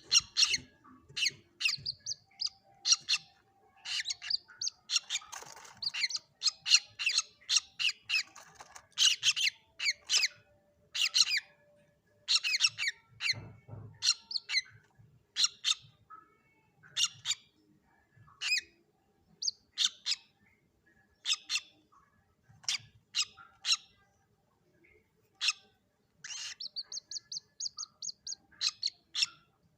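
Common moorhen chicks calling: short, high squeaky peeps repeated irregularly, several a second at times, with a brief rapid trill near the end.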